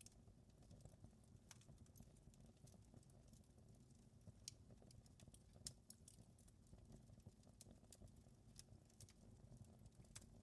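Wood fire crackling faintly in a fireplace: scattered, irregular small pops and snaps over a low steady rumble.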